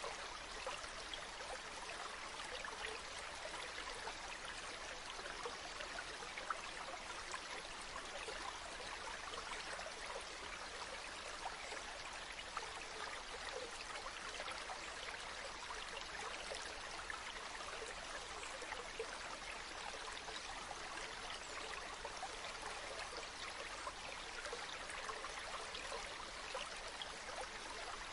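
Flowing water running steadily, a continuous rush full of fine splashing and trickling, with little deep rumble.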